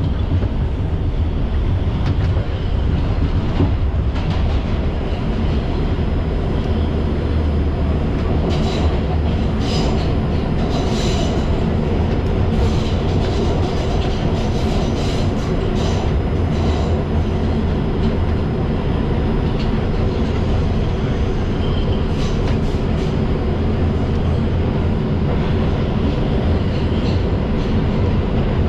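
Inside an R142 subway car running at speed: a steady, loud low rumble of wheels on rail and traction motors. A run of sharp clacks from the wheels over the track comes between about 8 and 17 seconds in, and a few more around 22 seconds.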